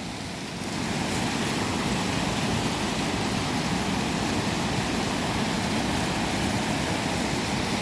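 Steady rush of flowing and falling water, rising to full level about a second in and then holding even.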